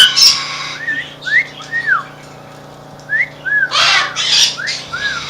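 Caged parrots squawking and whistling: a loud harsh squawk at the start, then several short whistles that rise and fall, and a burst of rough squawks about four seconds in.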